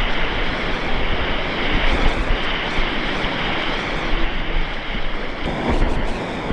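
River water rushing steadily around a kayak, with wind buffeting the microphone.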